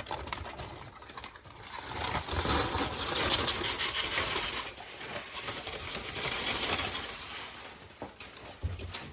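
Rapid, dense crackling of popcorn in a paper bag that swells for several seconds and then eases off.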